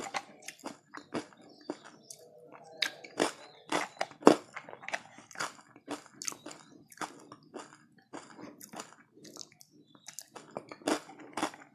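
Close-miked chewing of a crunchy food eaten by spoon, a quick run of sharp crunches, several a second, with a few louder bites.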